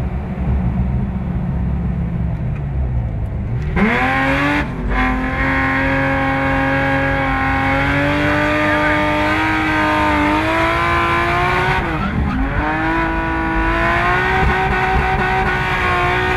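BMW engine heard from inside the cabin on a circuit lap. For the first few seconds the engine is off the throttle with revs falling. About four seconds in it goes back on the power, louder, with revs climbing steadily. About twelve seconds in the revs drop briefly at an upshift, then climb again.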